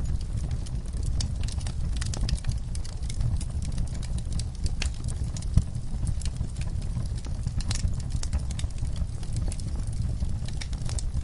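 Wood fire burning in a fireplace: the logs crackle with many irregular sharp pops, one louder pop about halfway through, over a low steady rumble of the flames.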